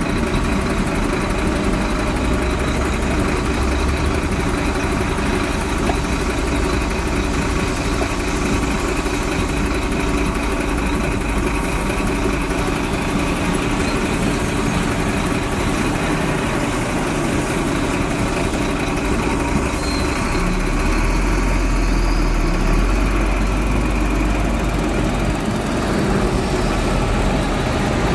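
Bulldozer's diesel engine running steadily, its low rumble growing heavier for a few seconds about two-thirds of the way through.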